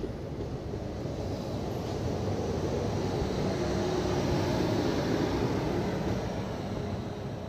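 Passenger train running past a freight train of open hopper wagons hauled by an electric locomotive: a steady rumble of wheels on rails with a hiss, swelling to its loudest about four to five seconds in and easing off after.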